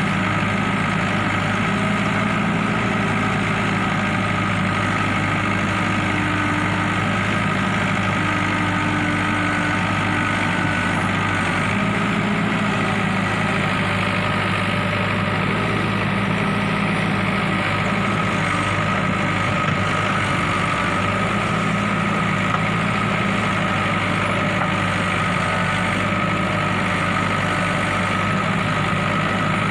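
ACE AX-130 backhoe loader's diesel engine running steadily, its note shifting slightly now and then.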